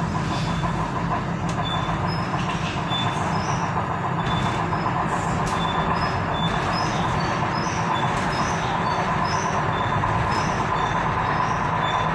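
Tyne and Wear Metro train running along the track, heard from inside the carriage. The wheels and running gear make a steady noise, with a faint steady whine and short high ticks about once a second.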